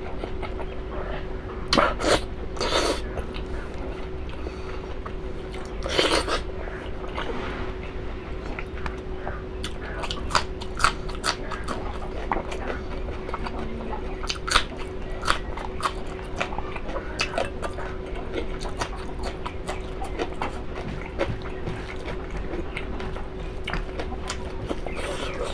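Close-up chewing and biting of beef innards: many short wet clicks, with a few louder bites about two, three and six seconds in, over a steady low hum.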